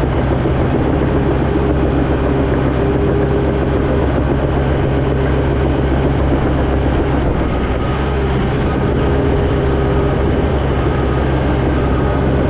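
Heavy earthmoving machine's diesel engine running steadily under work, a loud even drone with a fainter steady higher tone above it.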